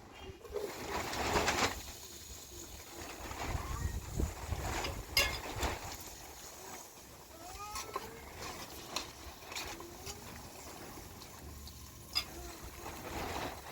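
A few short bird calls over a low rumble, with scattered clicks and knocks.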